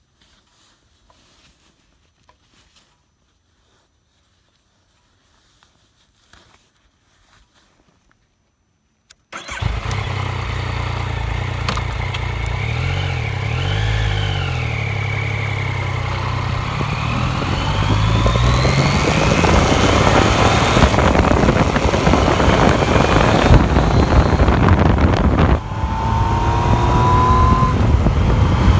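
Near silence with faint small handling noises, then, about nine seconds in, a Yamaha FZ-09's 847 cc inline-three engine starts and idles, its pitch rising and falling as the throttle is blipped. It then grows louder with wind noise as the motorcycle rides off, with a brief dip and a rising pitch near the end as it shifts up and accelerates.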